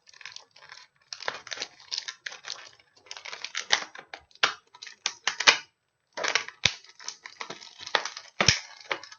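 Packaging being handled and pulled open: irregular bursts of crinkling and tearing rustle, with a couple of sharp clicks near the end.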